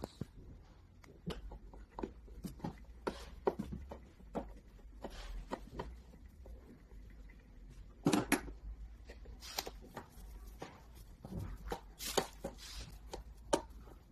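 Irregular clicks and knocks of objects being handled, with louder clattering bursts about eight seconds in and again about twelve seconds in.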